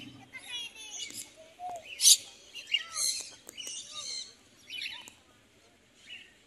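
Birds chirping and trilling in short high calls, with one loud sharp shriek about two seconds in; the calls thin out near the end.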